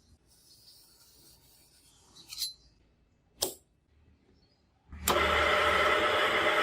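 Two short sharp knocks, then a power tool switches on about five seconds in and runs loudly and steadily with a whine, typical of metal being cut or ground.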